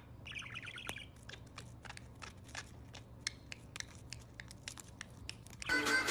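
A parrot chirping softly amid many quick, irregular little clicks and taps. Music starts near the end.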